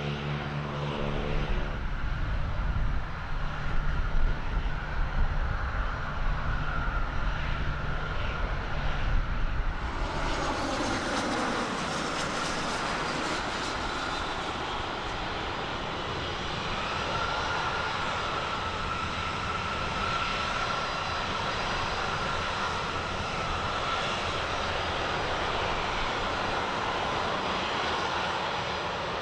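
Aeroplane engines running: a low uneven rumble at first, then about ten seconds in a fuller rushing sound comes in with a steady high whine that holds to the end.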